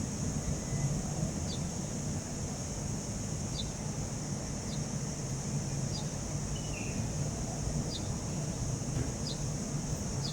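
Outdoor ambience: a steady low rumble like distant traffic under a constant high-pitched drone, with short high chirps every second or two.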